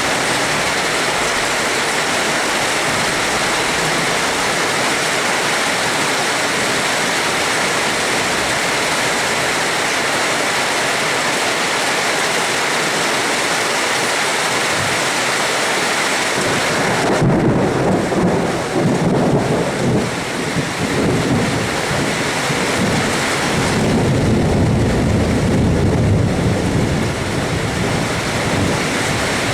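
Steady heavy rain hissing, with rolling thunder: a long low rumble sets in about 17 seconds in, and another near the end.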